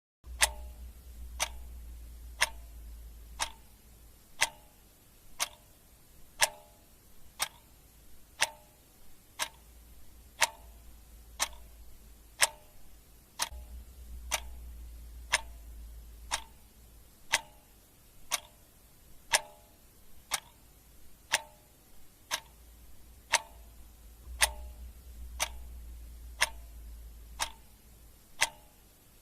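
Ticking clock sound effect, a steady sharp tick about once a second.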